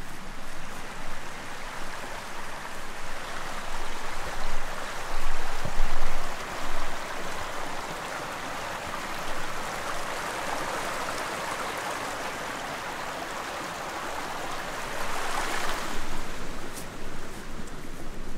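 Stream water flowing and rushing steadily over stones, swelling fuller a little past the middle. A few louder low thumps come between about four and seven seconds in.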